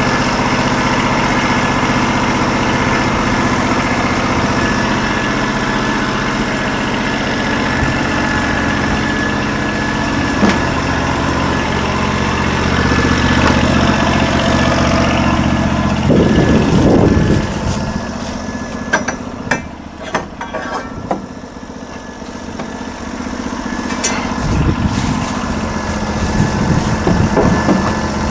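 Norwood LM29 portable band sawmill with its 16 hp engine running steadily while the blade cuts through a log. About two-thirds through, the sound drops for several seconds with a few sharp clicks and knocks over the engine running more quietly, then builds up again near the end.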